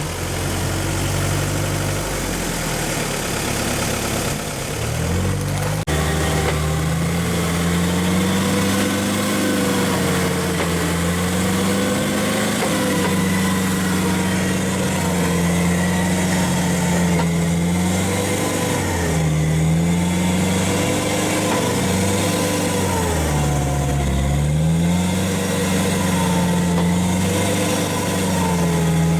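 Off-road 4x4's engine running hard, its pitch rising and falling again and again as the stuck vehicle tries to work its way out of the mud.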